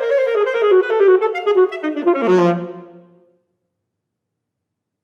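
Solo alto saxophone playing quick runs of notes, then a low final note about two seconds in that dies away to silence a little after three seconds.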